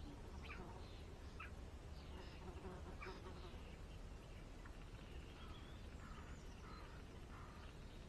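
Faint birdsong from small birds: scattered short chirps and calls, with one brief rising call about five seconds in, over a low steady background rumble.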